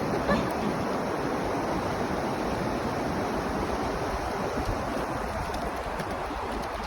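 River water flowing steadily, a continuous rushing noise.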